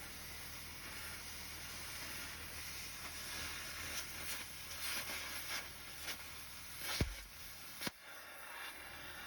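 Cutting torch hissing steadily as it cuts the old vacuum pump off the truck frame, with scattered pops and clicks. Two sharp metallic knocks come near the end.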